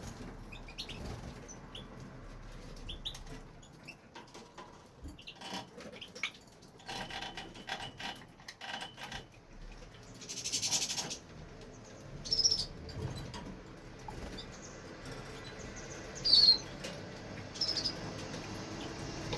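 European goldfinch giving a few short, high chirps, the loudest about sixteen seconds in, among faint scattered rustles and clicks. A brief rustling burst comes about ten seconds in.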